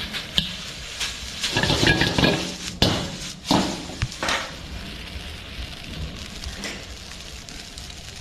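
Chow mein noodles being tossed and stirred in a hot frying pan: a metal utensil clinks and scrapes against the pan several times in the first half, over a low sizzle.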